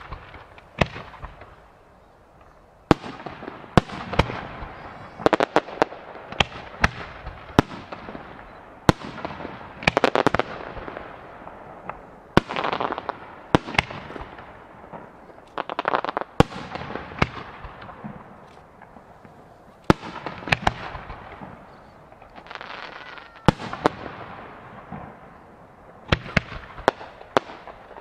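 Aerial firework shells bursting one after another in a display, sharp bangs each trailing off in an echo, with a haze of noise between them. After a short lull near the start the bursts come thick and fast.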